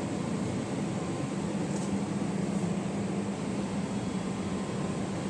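Steady machine hum and hiss, with a low hum tone growing stronger about a second and a half in.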